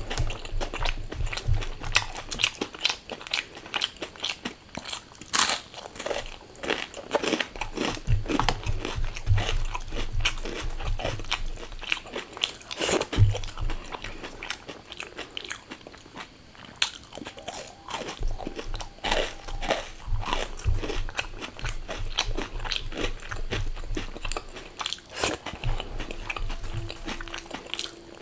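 Close-miked eating: a person biting, crunching and chewing crisp fried food, with irregular sharp crunches between stretches of softer chewing.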